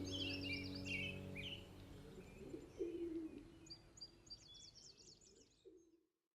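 Small birds chirping and twittering in quick high notes over a faint low sustained hum, all fading out to silence near the end.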